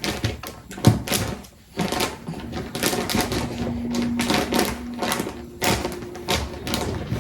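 A rapid, irregular run of sharp clicks and taps, with a faint steady tone between about three and five and a half seconds in.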